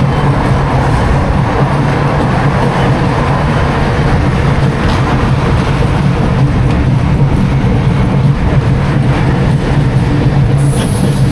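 Schwarzkopf Jumbo Jet roller coaster train rolling along its steel track: a loud, steady rumble of wheels on rail with a low hum. A hiss comes in near the end.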